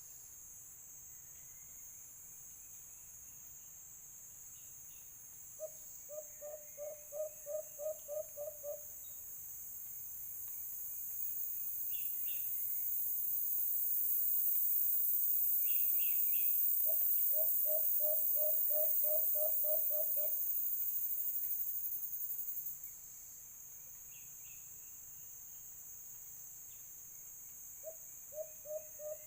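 White-eared brown dove calling: a run of about a dozen low, evenly spaced hoots, repeated three times. A high insect drone swells up in the middle and cuts off, with faint chirps of other birds.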